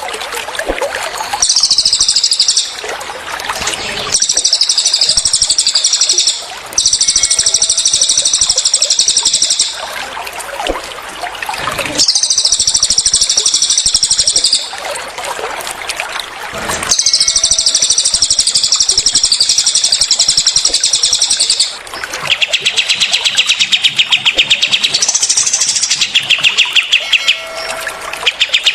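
Cililin and kapas tembak songbirds singing in rapid-fire 'tembakan' bursts: dense, very fast high trills lasting two to three seconds each, repeated several times with short breaks. About two-thirds of the way through, a lower, evenly pulsing trill takes over.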